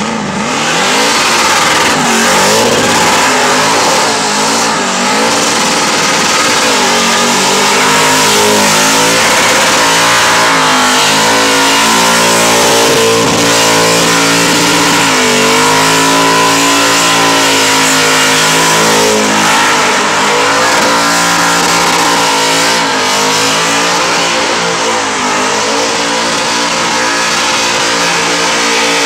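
Supercharged burnout car's engine held at high revs through a long burnout, its pitch rising and falling again and again as the throttle is worked, over the hiss of the rear tyres spinning on the asphalt.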